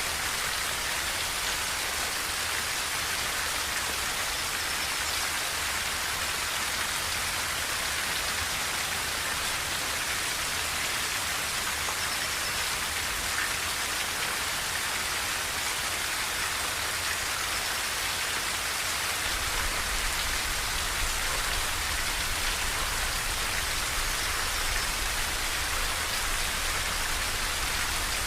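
Steady rain falling on a tin roof, an even, unbroken hiss of drops. A low rumble underneath grows a little stronger about two-thirds of the way through.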